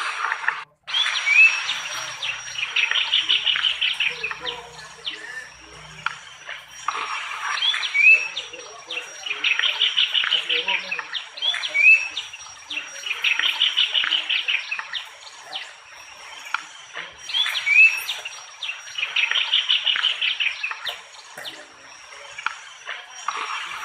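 Outdoor birdsong repeating in a regular cycle: each phrase is a short rising note followed by about a second of rapid chattering notes, about four phrases in all. Under it runs a steady high insect whine.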